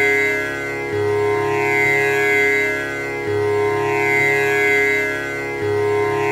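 Tanpura drone: its strings are plucked in a repeating cycle about every two and a half seconds, a new round starting with a low string, and the tones run on and overlap into a continuous, shimmering drone.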